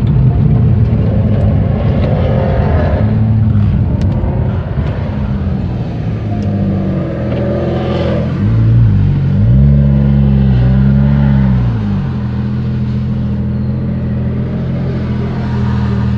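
Porsche 911 Carrera GTS flat-six running through an IPE aftermarket exhaust. It holds a steady engine note, then rises and falls in pitch a few times in the middle as it is revved and let off, before settling back to a steady note.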